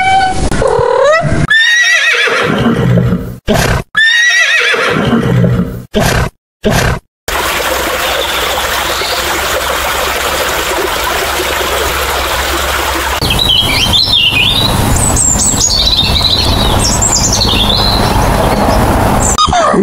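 A domestic cat meowing several times in rising-and-falling calls, then a steady rushing hiss, then a common starling's high chattering, whistling song for the last several seconds.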